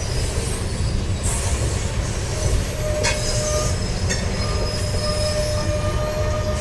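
Freight train rolling past with a steady heavy rumble of wheels on rail. Thin, high wheel squeal tones set in about two and a half seconds in and hold on.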